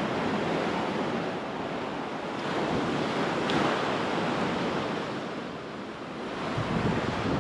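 Ocean surf breaking and washing up a sandy beach, with wind on the microphone; the wash swells about halfway through and again near the end.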